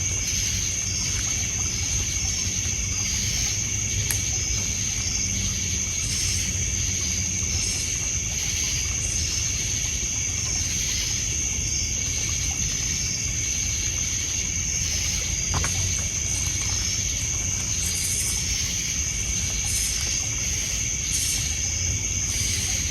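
Crickets and other night insects singing: one steady high trill with rhythmic chirping beneath it. A low wash of water laps on a pebble shore underneath, with a few faint isolated crackles.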